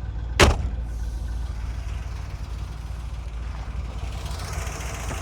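1963 Corvette's 327 cubic-inch, 340 hp solid-lifter small-block V8 idling steadily. A single sharp knock sounds about half a second in.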